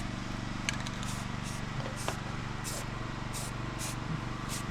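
Aerosol spray-paint can hissing in short bursts, about eight in a row, as primer goes onto freshly welded steel. A steady low engine hum runs under it.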